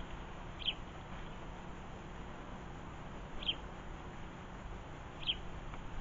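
A small garden bird calling: three short, high chirps a couple of seconds apart, over steady low background noise.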